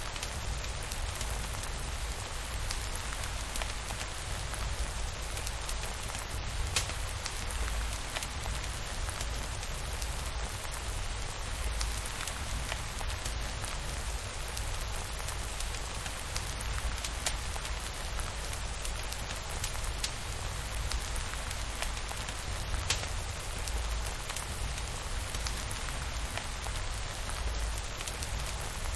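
Steady rain falling on a surface, an even hiss over a constant low rumble, with scattered sharp ticks now and then.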